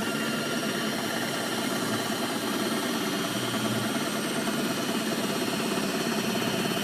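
Electric tilt motor of a small outboard running with a steady whine as it lowers the motor into the water.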